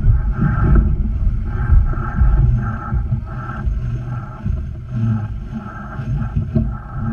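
Wind buffeting the microphone aboard a sailboat under way, a heavy, uneven low rumble.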